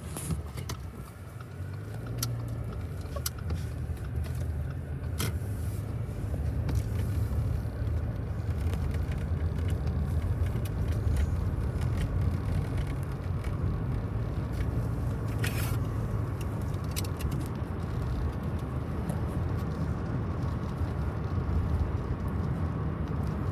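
Empty coal train rolling past at a distance, a steady low rumble that builds over the first few seconds and then holds, with a few brief sharp clicks.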